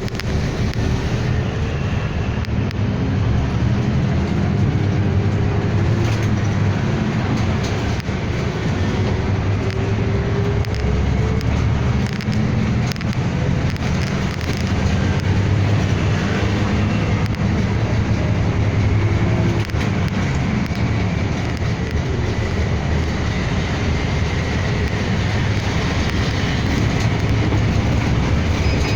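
City bus running along the road, heard from inside the cabin: a steady mix of engine and tyre noise, with a faint whine that glides up and down.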